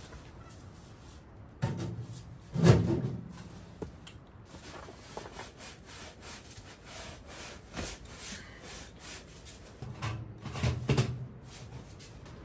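Gear being handled and set down: rubbing and scraping, with two heavy thumps about two and three seconds in (the second is the loudest), and more knocks near the end.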